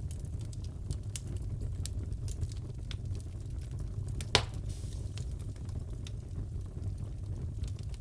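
Fireplace crackling: a steady low rumble of burning logs with scattered small crackles and one loud pop a little past halfway.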